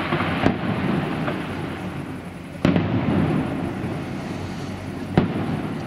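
Fireworks display: three sharp bangs, about half a second in, near the middle and near the end, each followed by a low rolling echo, over a steady rumble of further bursts.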